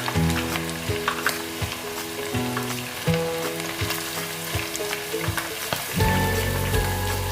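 Battered pork pieces frying in hot oil, a steady sizzle with many small crackles and pops, over background music.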